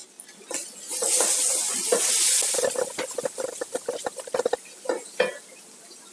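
Cooking in a pot: a hiss lasting a second or two, then a quick run of knocks of a utensil against the pot, about five or six a second, stopping about five seconds in.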